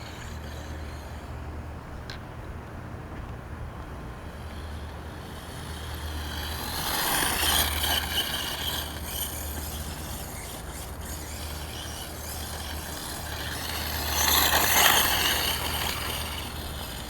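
Redcat 1/5-scale electric RC monster truck driving at about quarter throttle: motor and drivetrain running with tyre noise, growing louder twice, about six to nine seconds in and again near the end. No knocking is heard from its differentials.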